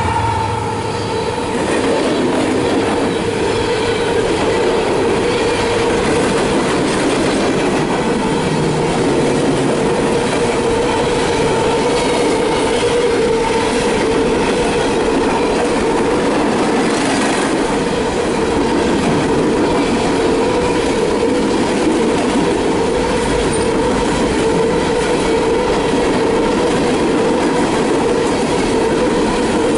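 Empty coal hopper cars of a CSX freight train rolling past at speed: a steady, loud rumble and rattle of wheels on rail, with a sustained squealing tone from the wheels.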